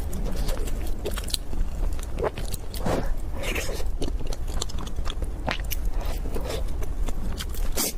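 Close-miked chewing of a soft chocolate-coated bread bun, with many irregular wet mouth clicks and smacks.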